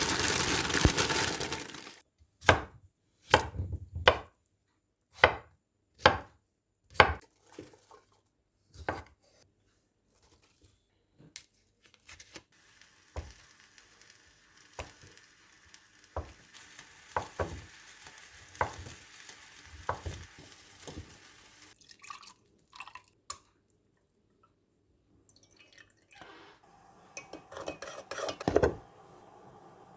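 Kitchen food-prep sounds: after a loud noisy burst at the start, a knife strikes a cutting board in single strokes about once a second, followed by more scattered knocks and clinks of utensils and dishes.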